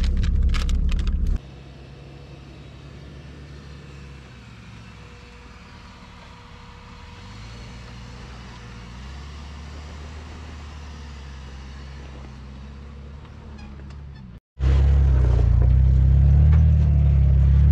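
Off-road Jeep engine running at low revs, its pitch stepping up and down with the throttle. About a second in it drops to a much quieter engine sound, and after a brief cut near the end it is loud again and rising.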